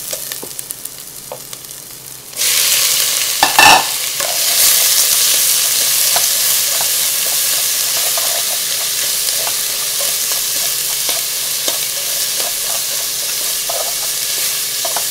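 Shallots frying in oil in a pot, stirred with a wooden spoon with small clicks. About two seconds in, raw shrimp go into the hot oil and a loud sizzle starts suddenly, with a single knock a second later, then a steady loud sizzle as the shrimp are stirred.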